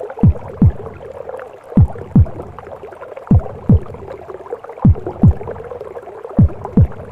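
Heartbeat as heard inside the womb: paired low lub-dub thumps, five pairs about a second and a half apart, over a steady whooshing, gurgling womb noise.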